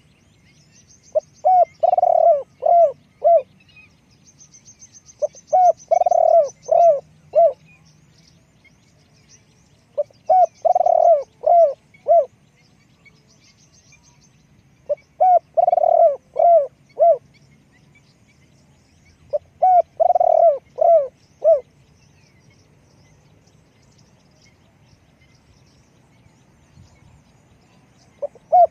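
Spotted dove cooing: five phrases of four or five clipped, hooked notes each, one about every four to five seconds, with a long pause near the end. Faint high twittering sits behind the first several seconds.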